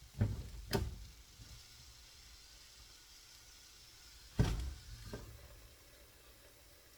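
An omelette sizzling faintly in a frying pan, broken by four sharp knocks, the loudest about four and a half seconds in.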